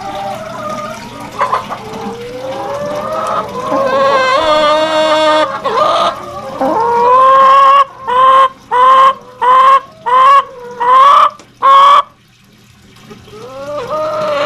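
Chickens calling, building up to a run of about six loud, evenly spaced calls, then going quieter. The hens are calling for water.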